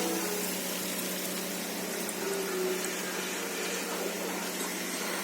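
Small water pump of a DIY mini fountain running with a steady hum while water trickles and splashes continuously.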